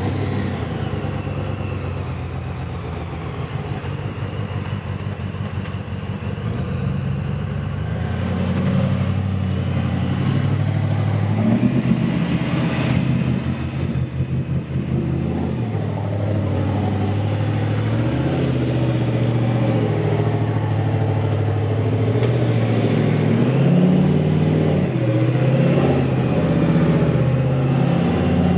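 Toyota FJ45 4WD's engine revving under off-road load, its pitch rising and falling again and again, louder from about eight seconds in.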